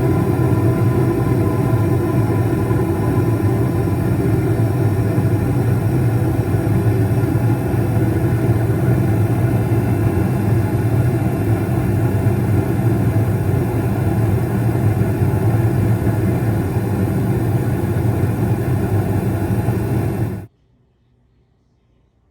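Carrier Infinity98 gas furnace running: a steady rumble with a constant mechanical hum, cutting off abruptly near the end.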